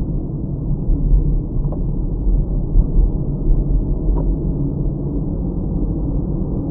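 Steady low rumble of a car on the move, road and engine noise picked up by a dash cam, with two faint ticks partway through.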